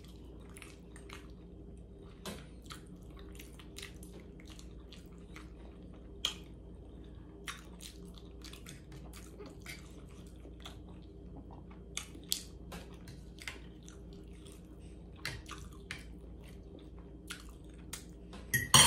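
Close-miked chewing of mouthfuls of cheeseburger Hamburger Helper, heard as irregular wet mouth clicks and smacks. A few clicks stand out louder, about six and twelve seconds in.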